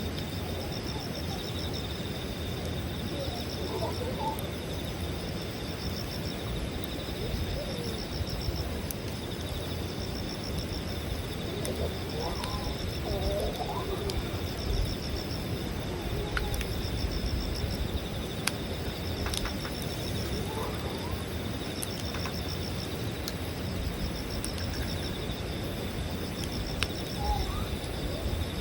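Wood campfire crackling, with scattered sharp pops over a steady low noise. Insects trill in evenly repeated pulses, and birds call briefly a few times.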